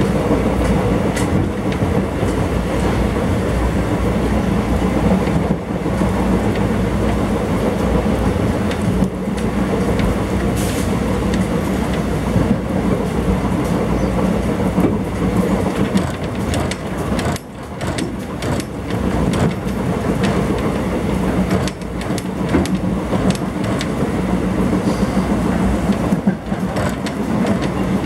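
Express passenger train running at speed, heard from inside a coach at the window: a steady rumble of wheels on the track with occasional irregular clicks, easing briefly about two-thirds in.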